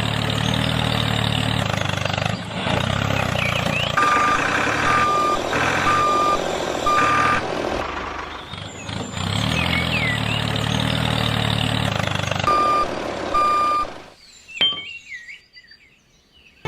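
Truck engine running with its reversing alarm beeping a single steady tone: four beeps about four seconds in and two more later. Near the end the sound drops away.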